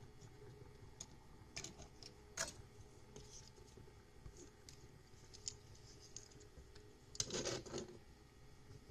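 Small die-cast toy cars being handled and set down on a table: a few scattered light clicks, with a brief scraping clatter about seven seconds in.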